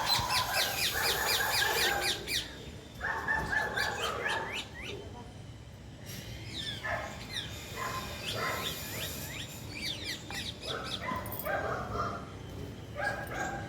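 Parrots calling: quick high chirps mixed with harsh squawks in bursts of about a second, coming in several bouts.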